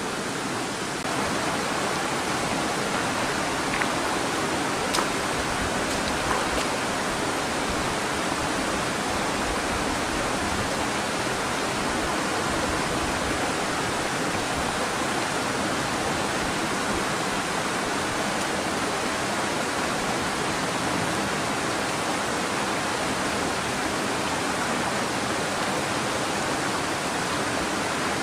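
Steady rush of a river flowing over rocks, even and unbroken, with a few faint clicks in the first seven seconds.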